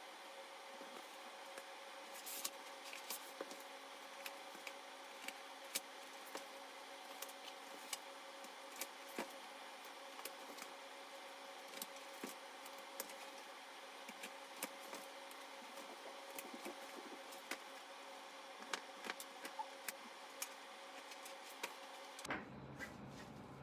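Faint, irregular small clicks and snips, about one or two a second, from hand work taking apart a zippered synthetic-leather Bible cover, over a steady faint hum.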